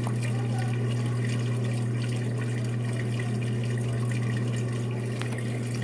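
Brastemp 5 kg washing machine draining: its drain pump runs with a steady hum while water rushes out under pressure.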